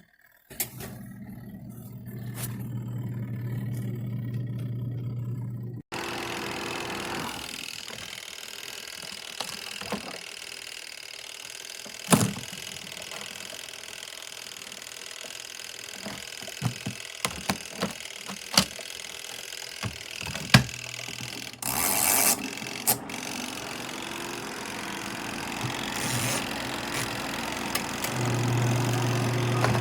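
A portable twin-tub washing machine's electric motor running with a steady low hum. The hum cuts off after a few seconds and returns near the end. In between is a noisier stretch with scattered clicks and knocks and one louder burst.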